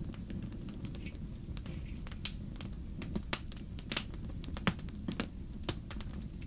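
Wood fire burning in a fireplace, crackling and popping irregularly over a steady low rumble of the flames, with a few louder pops about four to five seconds in.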